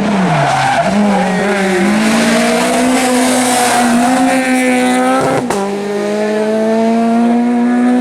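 Four-cylinder engine of an R2B-class rally car, loud and revving hard. The pitch drops in the first second, climbs steadily, then breaks sharply about five and a half seconds in before holding high again.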